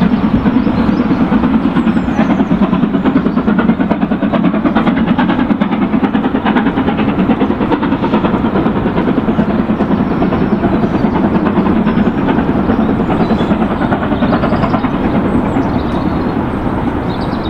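Steam-hauled train with a class 67 diesel at the rear passing and drawing away: a steady, dense rumble and rush of locomotive and coaches that eases slightly near the end.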